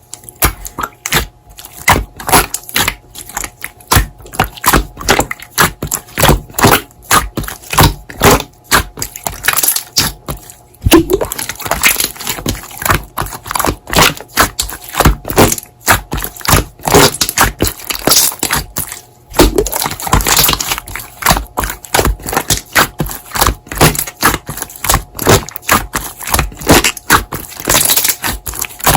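Slime being pressed and squished by hand, with many sharp, irregular pops and crackles of trapped air.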